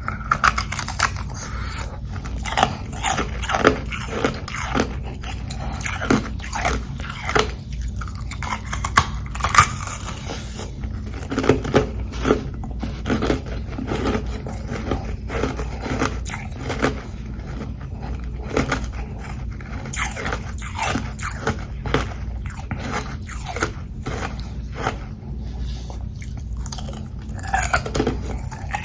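Close-miked biting and chewing of carbonated ice frozen in bottles: many sharp, irregular crunches, some bites louder than others.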